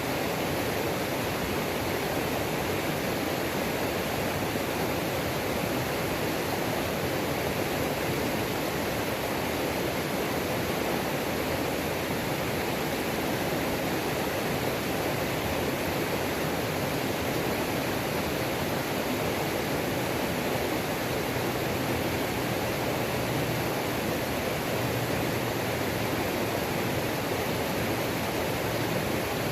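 A creek's waterfall pouring steadily, a constant full rushing of water with no breaks or changes.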